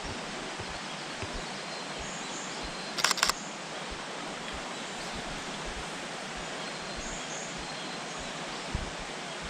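A quick burst of Nikon camera shutter clicks in continuous shooting, about three seconds in, over a steady background hiss of forest ambience.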